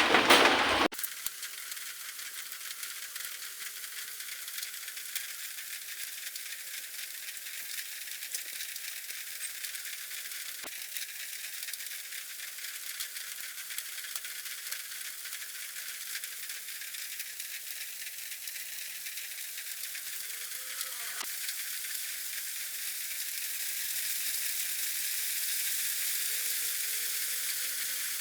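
A steady high hiss with no clear events, growing slightly louder near the end, with one faint click about eleven seconds in.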